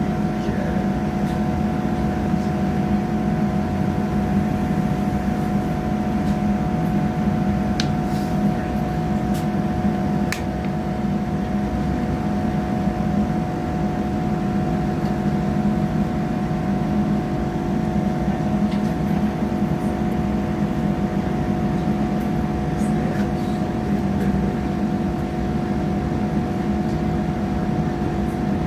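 Diesel passenger train running between stations, heard from inside the carriage: a steady engine hum over the rumble of wheels on the track, with a few faint clicks.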